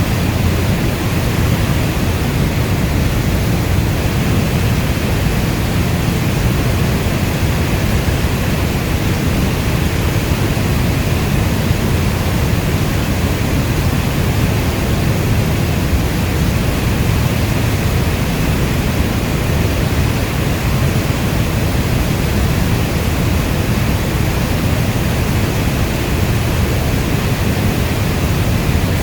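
Steady heavy rainfall: an even, unbroken rush with a deep low rumble under a lighter hiss. No single drops or claps stand out.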